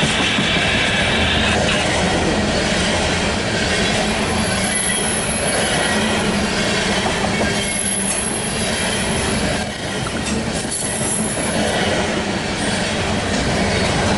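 Loaded coal train rolling steadily past, its steel wheels rumbling on the rails, with a thin high wheel squeal that comes and goes several times.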